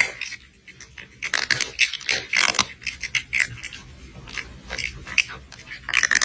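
A rapid, irregular run of short crunching and clicking noises, thickest in the middle and again near the end.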